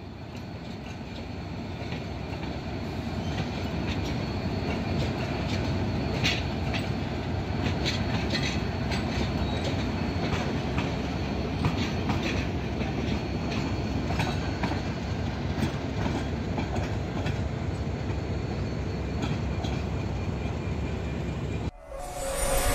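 Train running along the track with a steady rumble and scattered clicks and clacks of the wheels on the rails, growing louder over the first few seconds. It cuts off abruptly about a second before the end.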